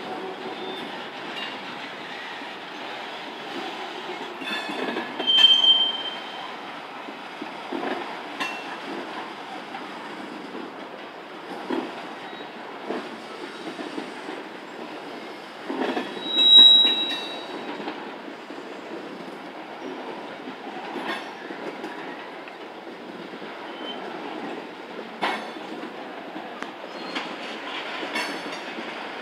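Railroad cars rolling past with a steady rumble and scattered sharp clicks of wheels over rail joints. Brief high-pitched wheel squeals come about five and sixteen seconds in, the loudest moments.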